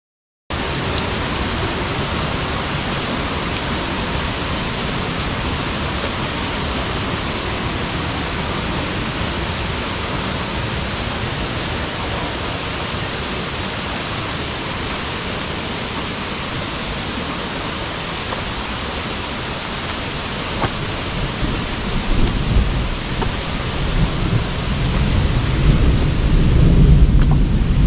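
Heavy rain pouring down, with rushing water, as a steady even hiss. In the last third a low rumble swells in uneven surges and is loudest near the end.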